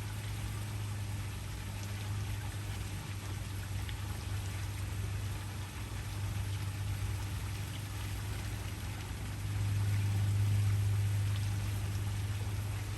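Waterfall: a steady rush of falling water with a deep low rumble, swelling slightly in loudness about ten seconds in.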